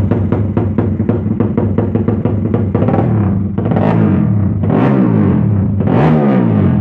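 A 200cc underbone drag-bike engine idling with a lumpy, pulsing beat, then blipped three times from about halfway in, the pitch rising and falling with each rev.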